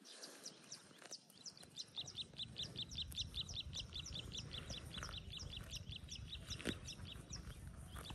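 A bird calling in a fast, steady run of short, high, downward chirps, about six a second, over a low rumble, with one sharp knock about two thirds of the way through.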